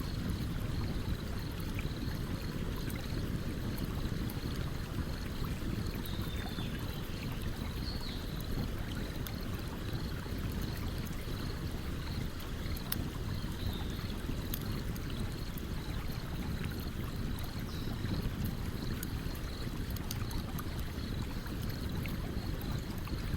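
A stream running steadily, with a campfire crackling in small, sharp pops scattered over it.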